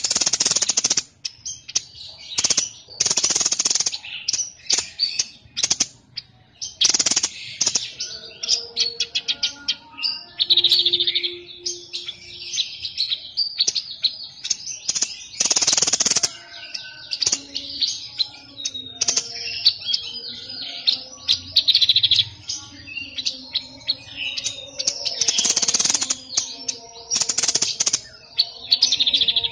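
Caged songbird of the kind Indonesian keepers call the "sniper", singing loud, high-pitched bursts of rapid chirps and trills with short pauses between phrases.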